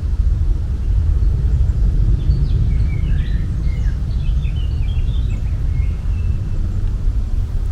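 Outdoor nature ambience: a steady low rumble with birds chirping in short calls over it, most of them in the middle.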